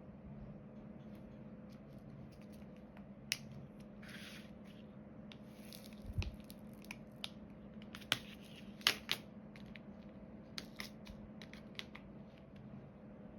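Diamond painting work: scattered small sharp clicks and crinkling as resin drills, tools and plastic film are handled on the canvas, with a soft thump about six seconds in.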